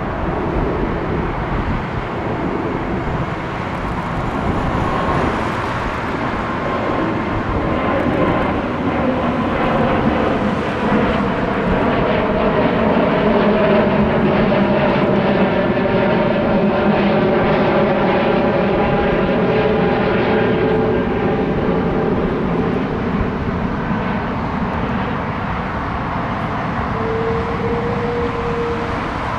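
Jet airliner departing and passing, its engine noise swelling to a peak about halfway through and then easing off, with tones that slide in pitch as it goes by.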